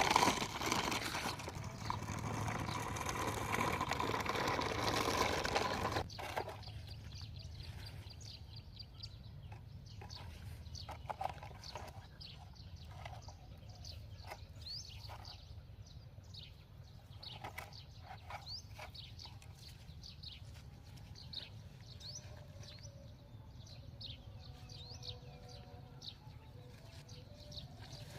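A loud rushing noise for about the first six seconds, which cuts off abruptly. Then birds chirping: many short, high chirps over a low steady hum.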